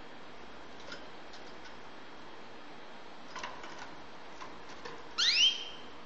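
Goldfinch × canary hybrid (mule) in a cage, a few faint ticks, then about five seconds in a loud call of two quick upward-sweeping notes.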